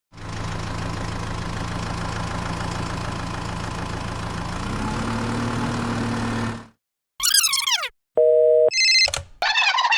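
A steady engine-like hum from a mini tractor, its pitch stepping up about five seconds in, cutting off suddenly. It is followed by short edited sound effects: a quick falling sweep, a steady beep, and bursts of high warbling tones near the end.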